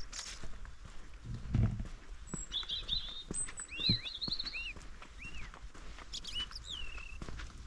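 Small birds calling with a run of short, arched high chirps and a thin falling note near the end. Footsteps on the forest floor sound under them, with two heavier thuds about one and a half and four seconds in.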